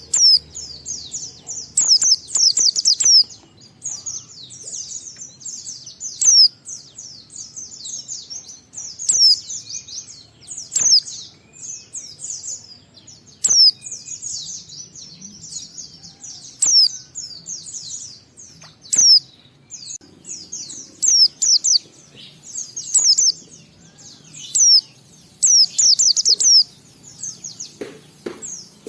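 White-eye (pleci) singing a long, fast, unbroken twitter of high, sharply falling notes, the full 'ngalas' song style, with occasional faint clicks.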